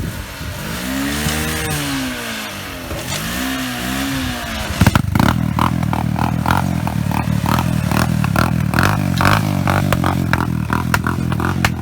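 An engine revs up and down twice, then runs steadily and louder from about five seconds in, with a clattering rattle over it.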